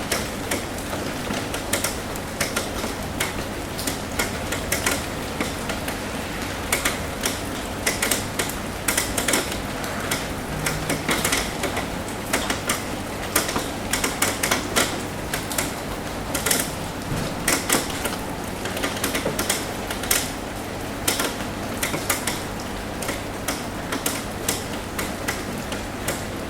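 Rain falling on a roof: a steady patter with many irregular sharp drop taps.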